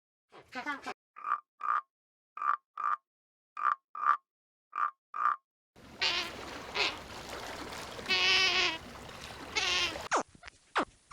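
An animal's short croaking calls in evenly spaced pairs, followed by other animal calls over background noise and, near the end, a few sharp falling calls.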